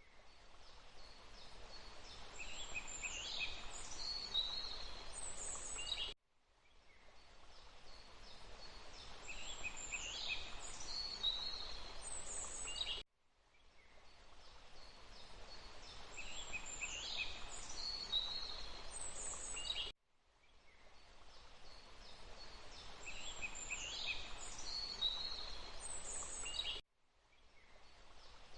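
Forest ambience: high birdsong, whistles and chirps, over a steady hiss. A short recording of about seven seconds loops, dropping out to silence and fading back in four times with the same bird calls each time.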